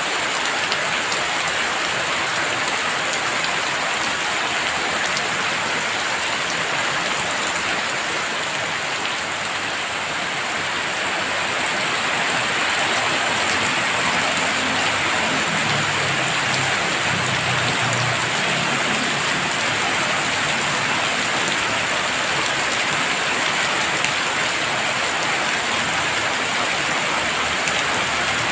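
Heavy rain pouring steadily in a dense, even hiss, slightly heavier from about halfway. A low rumble sits under it for several seconds in the middle.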